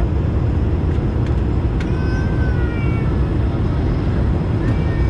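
Steady rumble of an Airbus A220-300's cabin, engines and airframe noise heard from inside at a window seat, with a few faint clicks.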